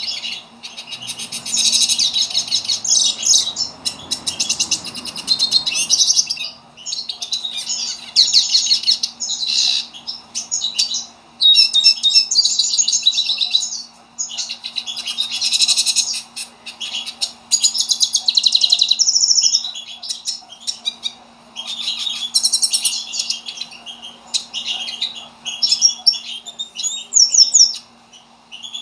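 A pet pintassilgo finch singing vigorously: long, fast twittering song phrases in bouts of a few seconds, separated by short pauses.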